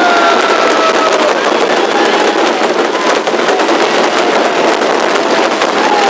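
Fireworks crackling in a rapid, unbroken string of sharp pops, like a strip of firecrackers, with a faint falling whistle-like tone now and then.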